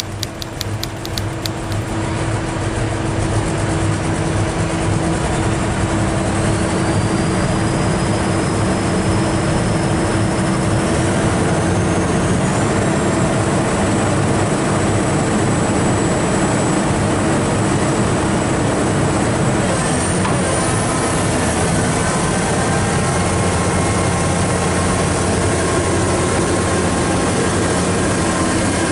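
Diesel engine of a Komatsu hydraulic excavator running steadily under load, with a thin high whine that climbs slowly in pitch through the first two-thirds.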